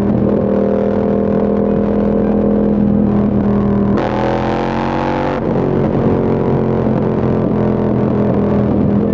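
Yamaha MT-07's parallel-twin engine running at a steady speed under way. About four seconds in, its pitch rises briefly under a rush of hiss for about a second and a half, then it settles back to the steady note.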